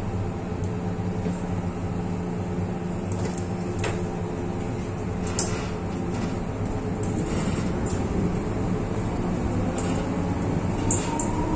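MTR M-Train heard from inside the passenger car while running: a steady rumble and hum with a few light clicks and knocks. Near the end, a motor whine rises in pitch.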